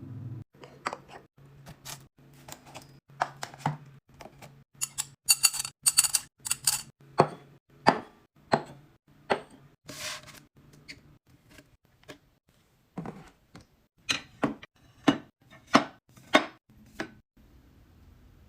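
Food containers and packages being handled and set down while restocking a fridge: a run of irregular knocks and clacks, with plastic crinkling about five to seven seconds in and again around ten seconds. A low hum sits under the first few seconds.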